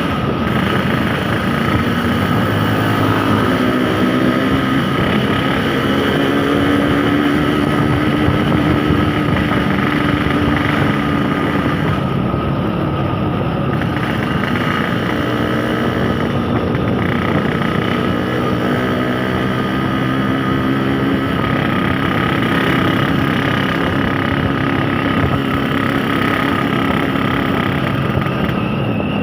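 Yamaha RX-King's 135 cc two-stroke single-cylinder engine running while riding in traffic. Its pitch rises as it revs up about three seconds in, then settles, and rises again past the middle.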